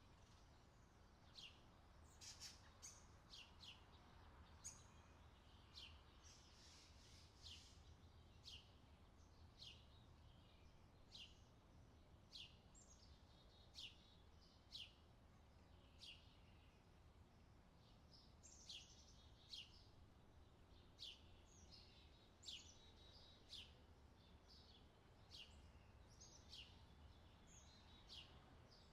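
Faint outdoor summer ambience track of birds chirping: many short, falling high calls, about one or two a second, over a low steady hum.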